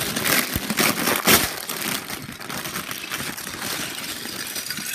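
Clear plastic Lego parts bag crinkling as it is handled and pulled open, with the loudest crackles in the first second and a half.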